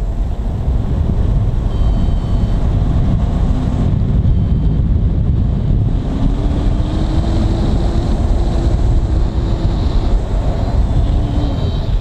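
Strong wind buffeting the microphone in flight: a loud, steady low rush. A few faint high beeps, such as a variometer gives, come through now and then.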